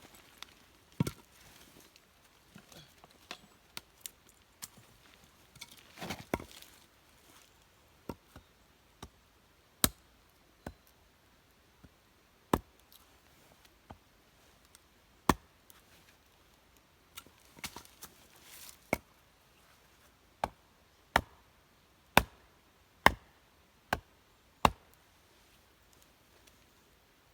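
Firewood being chopped or split: a series of sharp, separate wooden knocks, spaced irregularly at first and then coming about once a second before stopping.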